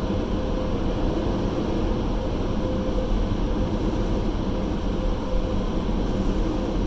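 Automatic car wash blower dryers running: a steady, loud rush of air with a constant hum through it.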